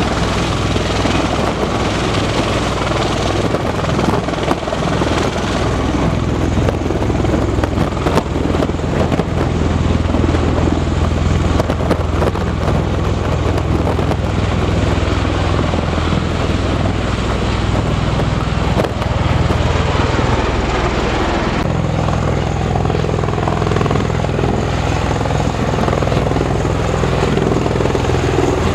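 Helicopter rotor and turbine engine noise running steadily and loudly, with a deep low hum underneath; its character shifts abruptly about three-quarters of the way through.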